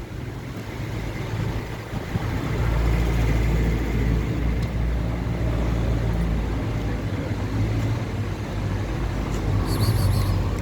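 A motor vehicle's engine running steadily, a low hum that grows louder about two and a half seconds in and stays.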